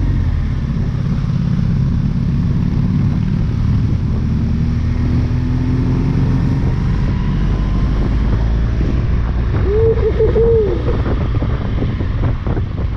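BMW R1200GS Rallye's boxer-twin engine running under load on the ride up, with wind noise on the microphone; the engine pitch climbs steadily between about two and six seconds in. About ten seconds in, a brief tone rises and falls over the engine.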